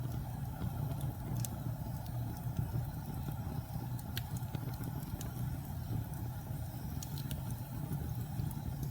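Fire in a fireplace crackling, with a steady low rumble under scattered sharp pops and snaps.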